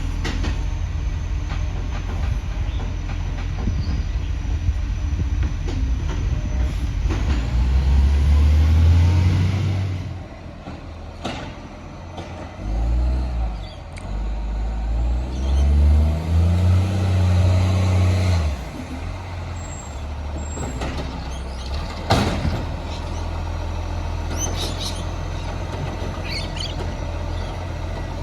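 Garbage truck's diesel engine idling, then revving up twice with rising and falling pitch before settling back to idle. A single sharp knock comes about two-thirds of the way through.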